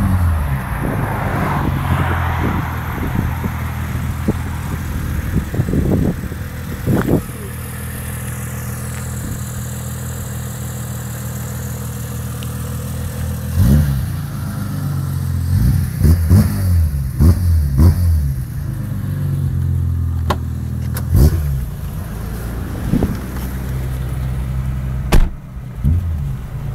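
Tuned car engine in a BMW M3 replica idling steadily, with short throttle blips that rev it up and let it fall straight back, once early on and then several in quick succession in the second half.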